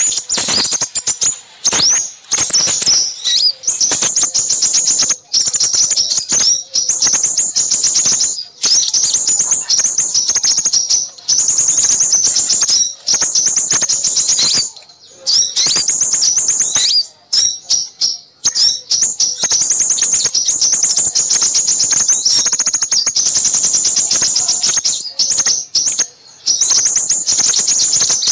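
Small songbirds chirping and trilling in rapid, high-pitched runs that barely pause: a lure recording of noisy small-bird calls played to draw in crimson sunbirds.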